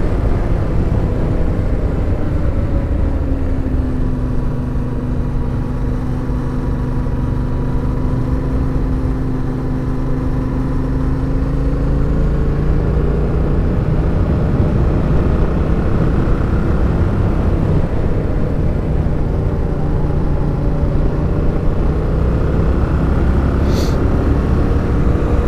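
Suzuki motorcycle engine running under way over a low rush. Its pitch drops in the first few seconds, holds steady, then climbs again about halfway through as the throttle and speed change.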